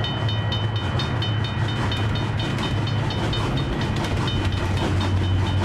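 Train running on the track: a steady low hum under quick, regular clicking of the wheels over the rails.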